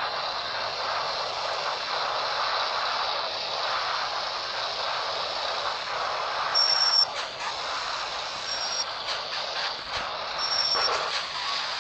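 Steady vehicle and road noise, with three short, high electronic beeps about two seconds apart in the second half.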